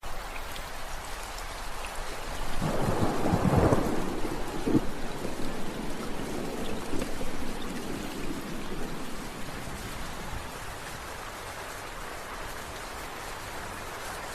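Steady rain falling, cutting in suddenly from silence, with a roll of thunder rumbling about two seconds in, at its loudest around four seconds, then dying away over several seconds under the rain.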